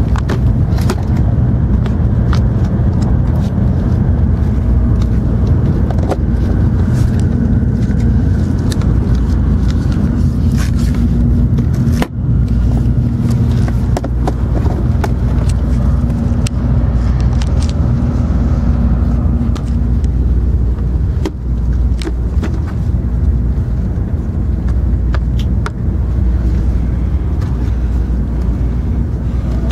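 Cabin running noise of an N700 series Shinkansen train: a steady low rumble with a steady hum that drops away about twenty seconds in, and scattered light clicks.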